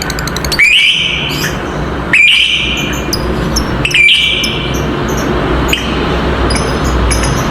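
Lovebirds calling: three loud, shrill calls starting about half a second, two seconds and four seconds in, each lasting under a second, with lighter high chirps in between. A steady low hum runs underneath.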